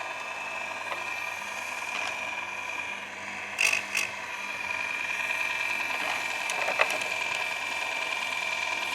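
Baumr-AG electric chainsaw sharpener running with a steady whine as its grinding wheel is brought down on the chain's teeth, with short grinding bursts, two sharp ones about three and a half seconds in and another near seven seconds.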